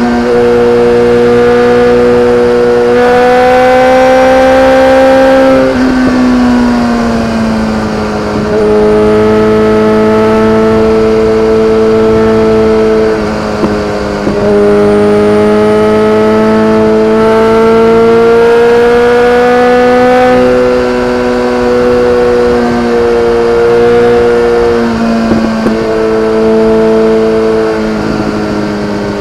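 BMW K1300R's inline-four engine through an Akrapovic exhaust, running hard and held at a steady high pitch for long stretches. The note rises slowly, falls about six seconds in and dips briefly a couple of times later as the revs change.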